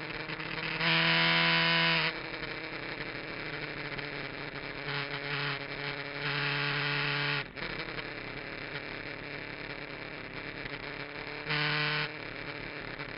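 Kawasaki GPZ900R's inline-four engine running at a steady speed, its pitch holding level, with four louder stretches: the longest comes about a second in, and a short one comes near the end.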